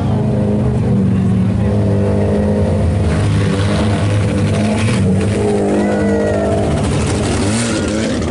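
IMCA Sport Compact race cars' four-cylinder engines running on the track, several at once, their pitch rising and falling as the cars go by.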